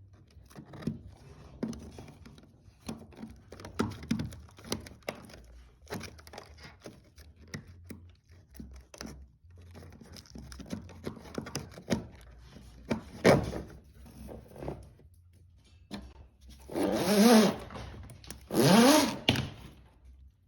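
Electrical cable being fed through a drilled hole in the ceiling board: scattered knocks, taps and scraping as the wire is pushed and pulled through. Near the end come two louder bursts of about a second each that rise and fall in pitch.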